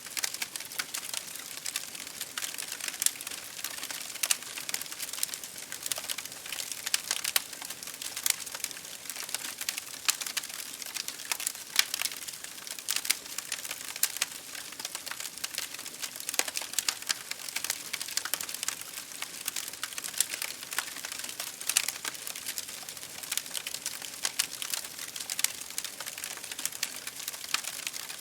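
Wood fire crackling in a fireplace: a dense, irregular run of sharp pops and snaps over a steady hiss of rain against a window pane.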